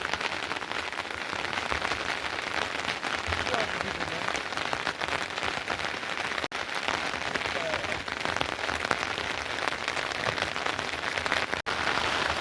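Steady rain falling, a dense patter of drops, cutting out for an instant twice.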